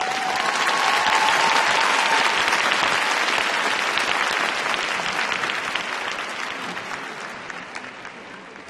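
Large arena audience applauding, swelling in the first couple of seconds and then slowly dying away.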